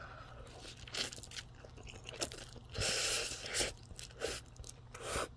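A person eating spicy stir-fried ramen noodles with melted cheese: quiet chewing and wet mouth clicks, with a longer breathy noise about three seconds in.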